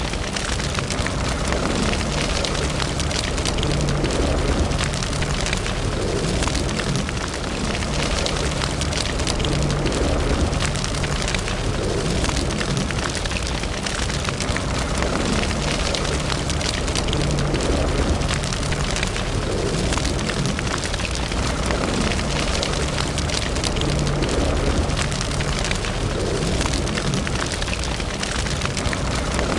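A wood fire burning in a fireplace: a steady low rumble of flame with dense, continuous crackling and small pops.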